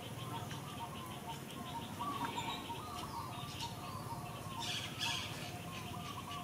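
Small birds chirping over and over in the background, short chirps a few times a second, with a brief hiss about five seconds in.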